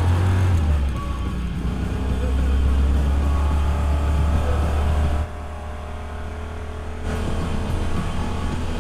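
Old car's engine running hard under throttle, heard from inside the cabin, with music playing over it. The engine sound drops off suddenly about five seconds in and comes back up about two seconds later.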